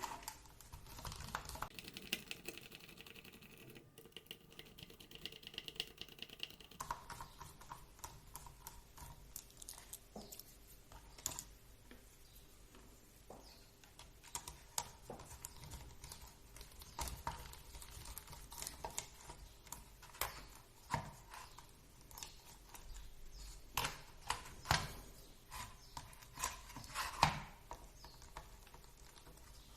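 Screws being undone with a screwdriver from the chassis of a 1/16 RC drift car: faint, irregular small clicks and ticks of the driver and of screws and parts being handled and set down.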